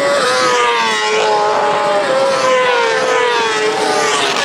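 Racing motorcycle engines at high revs on track, one steady engine note that slides slowly down in pitch.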